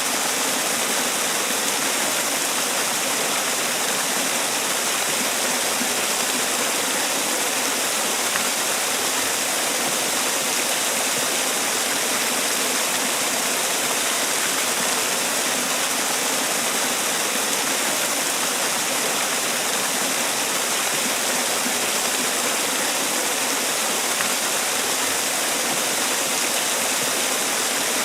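Man-made waterfall: water falling and splashing in a steady, unbroken rush, mostly hiss with little low rumble.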